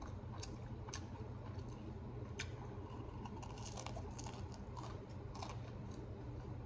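A person chewing a bite of pizza, with scattered soft mouth clicks and smacks, over a steady low hum in the room.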